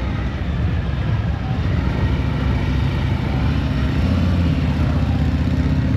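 Steady low engine rumble with no break, and a faint steady tone in the middle.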